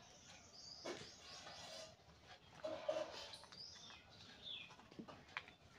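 Faint bird chirps, a few short rising calls, over soft rustles and creases of a paper banknote being folded by hand.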